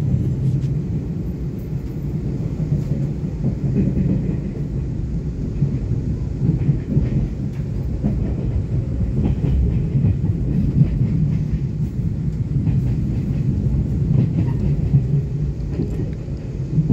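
Steady running noise inside a moving electric express train carriage: a continuous low rumble of the wheels on the rails.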